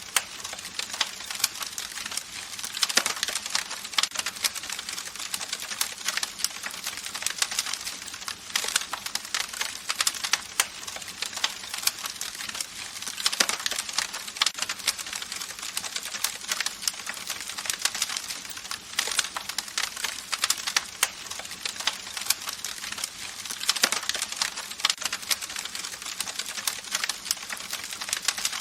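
Campfire crackling: wood in the fire pops and snaps in a dense, irregular run over a steady hiss of flame.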